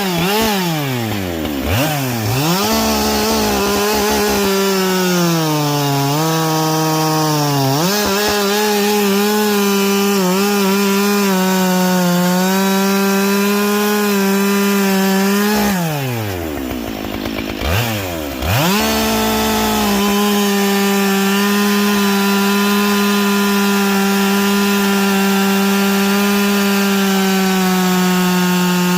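Husqvarna 572XP two-stroke chainsaw with a carbide chain, running at high revs while cutting through logs. The engine note falls away and climbs back up twice, about two seconds in and again just past the middle, and sits lower for a couple of seconds about six seconds in.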